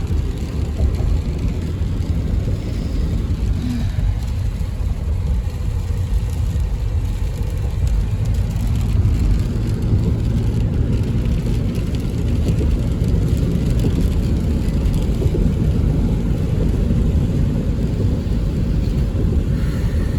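Steady low road and tyre noise inside a moving car's cabin at highway speed on a wet road.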